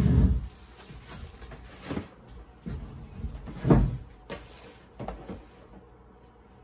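Shipping package and box being handled while unpacking: dull knocks and thumps with light rustling. There is a loud thump right at the start, a knock about two seconds in, the loudest thump a little past the middle, and a lighter one about five seconds in.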